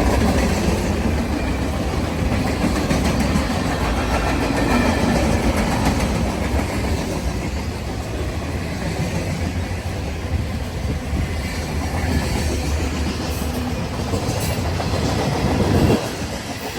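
Freight train cars rolling past close by: a steady rumble of steel wheels on rail with clickety-clack from the wheels. The sound drops off suddenly near the end.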